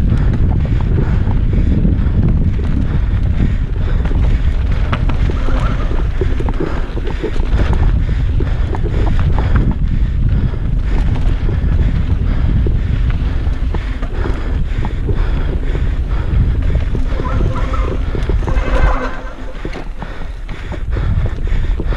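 Wind buffeting the microphone of a camera on a mountain bike racing downhill, over the clatter and rattle of the bike and tyres on rough dirt. The wind rumble eases for a second or two near the end before picking up again.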